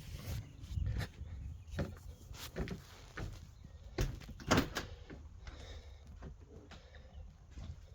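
Irregular knocks and clacks, several close together, the loudest a pair about halfway through, over a low steady rumble.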